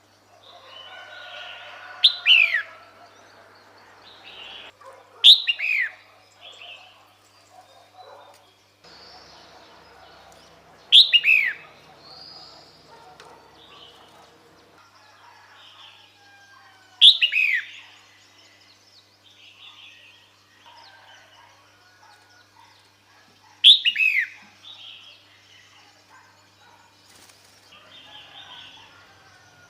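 Female red-whiskered bulbul calling: five loud, sharp calls, each a quick falling note with a short tail, roughly every six seconds. Fainter bird chirps sound between them.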